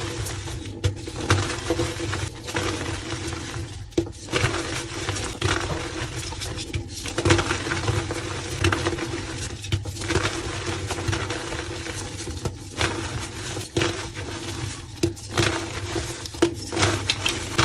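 Soft reformed gym chalk blocks being crushed and crumbled, a continuous dusty crunching dense with sharp little snaps and crackles.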